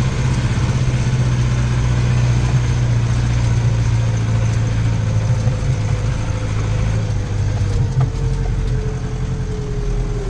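Case 844 XL Plus tractor's diesel engine running steadily under way in second gear of high range, with a faint whine that slowly drops in pitch over the second half.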